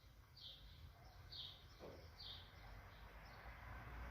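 Near silence: faint high bird chirps, about one a second, over a low hum of room tone.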